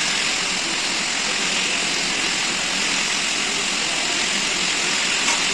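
Steady hiss of workshop machinery running without a break or change.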